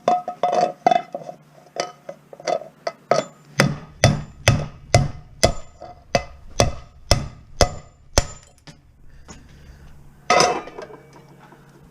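Hammer blows on scrap metal, knocking at riveted parts: scattered strikes at first, then a run of about a dozen evenly paced blows, about two a second, each with a short metallic ring, and one last heavier hit near the end.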